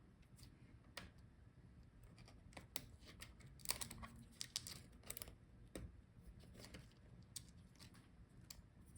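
Faint, scattered clicks and light taps of small plastic and metal laptop parts being handled during disassembly, busiest around the middle.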